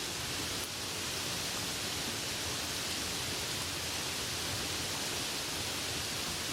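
Soft rain falling steadily, heard as an even hiss.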